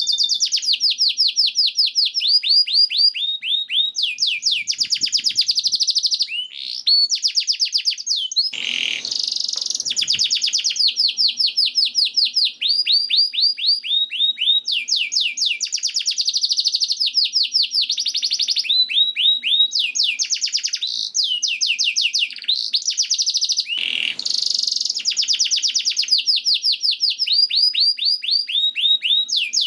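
Canary singing a long, nearly unbroken song of rapid high trills, runs of quick repeated sweeping notes that change speed from phrase to phrase, with a couple of harsher, raspier notes in between.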